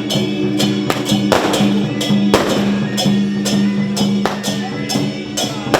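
Temple procession music: sustained wind-instrument tones over cymbal or gong crashes struck about twice a second.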